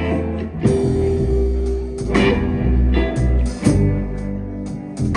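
Live band playing an instrumental passage: guitar with bass and drums, beats struck at a steady pace.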